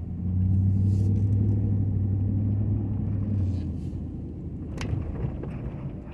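Ford F-250 pickup's engine running as the truck drives off, a low steady drone that grows louder just after the start and eases off after about three and a half seconds. A single sharp click comes near the end.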